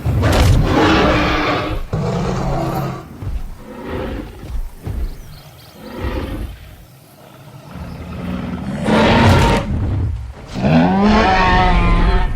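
A series of loud dinosaur-style roars, about six in a row with short gaps between them. The last two are the longest and loudest.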